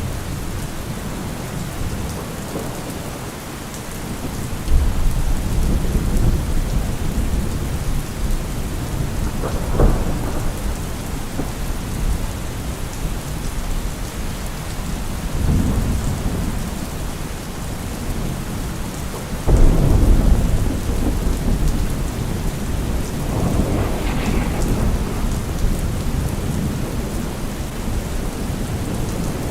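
Heavy rain falling steadily, with several low rumbling swells every few seconds; the loudest comes about twenty seconds in.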